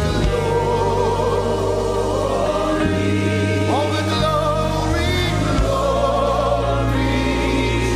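Gospel worship music: several voices singing a slow worship song over long held keyboard and bass chords that change every second or two.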